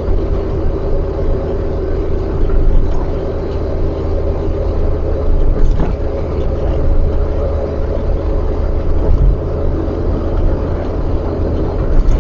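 Steady car cabin noise while driving: low engine and road rumble with a faint steady hum, and a single faint click about six seconds in.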